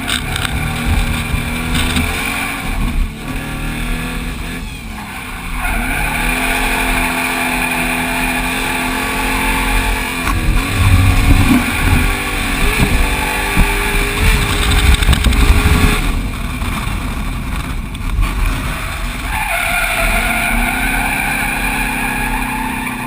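Drift truck's Toyota 1UZ-FE V8 revving up and down through a slide, with tyres squealing. It is loudest in the middle stretch.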